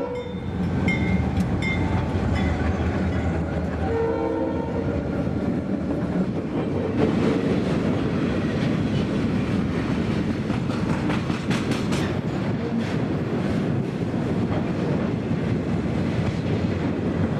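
A goods train passing: steady rumble of the train with wheels clicking over rail joints. Its horn gives a few short toots within the first three seconds and a longer note about four seconds in.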